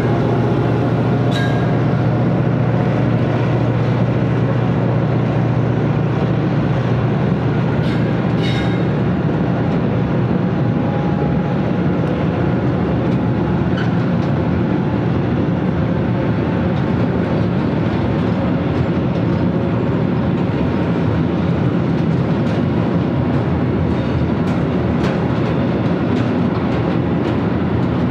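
Train rolling along the tracks: a steady low rumble with a few sharp clicks from the wheels, about a second in and again around eight seconds in.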